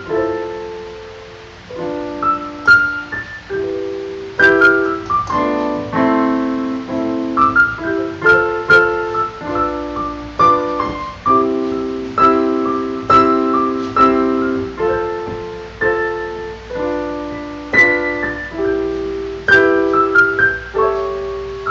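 Solo piano playing a slow, gentle piece, with a melody over broken chords, each note struck and then fading.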